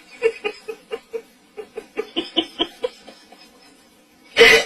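Laughter: a string of short, rhythmic 'ha' bursts, about four a second, followed by a louder vocal burst near the end.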